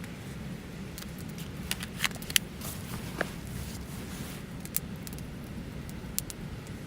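Wood fire crackling: irregular sharp pops and snaps, about seven of them, the loudest about two and a half seconds in, over a steady low rumble.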